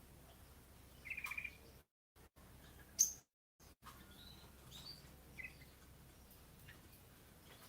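Faint, scattered chirps of small birds: a quick trilled chirp about a second in, a sharp high chirp about three seconds in, and a few softer chirps after it. The sound cuts out completely for brief moments in between.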